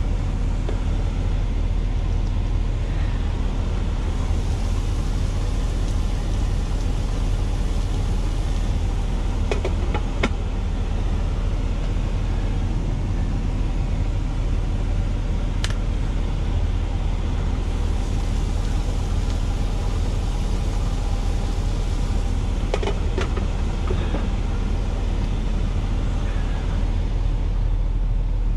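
Steady low drone of an idling truck engine heard inside the cab, with a few light clicks and knocks about ten, sixteen and twenty-three seconds in.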